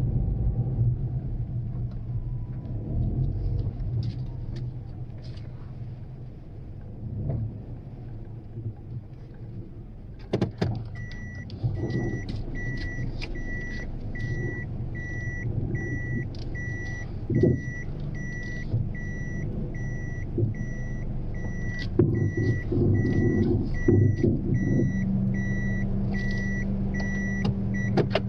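Small car's engine running with a steady low hum. About ten seconds in there are a few knocks, then a high electronic warning beep starts repeating at an even pace for the rest of the stretch.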